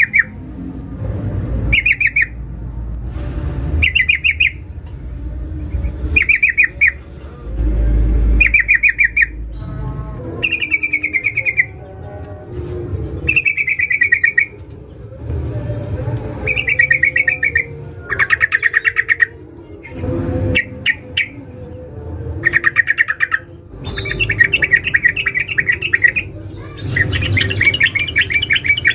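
Sooty-headed bulbul (trucukan) calling: short, fast, bubbly rattling phrases repeated about every two seconds, growing denser and nearly continuous toward the end. It is a female's call to a male, used as a lure call to set other bulbuls singing.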